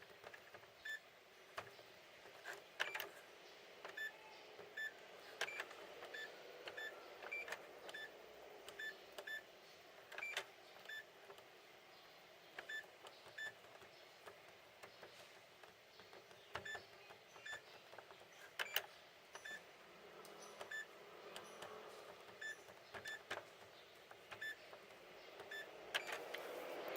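Touch control panel of a Hitachi superheated-steam microwave oven beeping at each key press: many short high beeps at one pitch, about one a second, with light clicks between them. Each press is answered, as the repaired panel is tested zone by zone.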